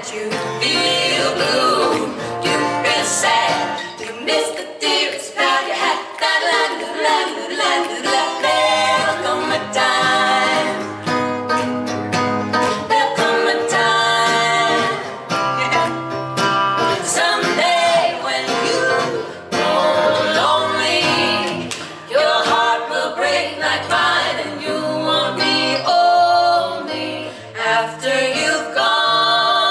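Live music: women's voices singing in close three-part harmony over plucked bass notes, with light percussion.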